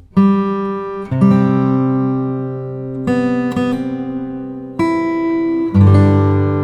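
Background music: acoustic guitar chords strummed one at a time, each left to ring and fade, a new chord about every one to two seconds.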